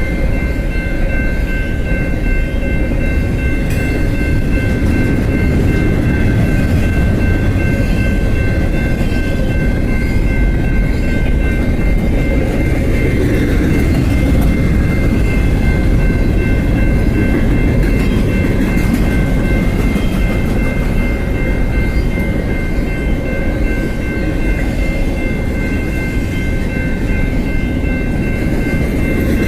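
BNSF freight train passing, its railroad cars rolling over the rails in a steady, loud rumble, with a steady high-pitched whine above it.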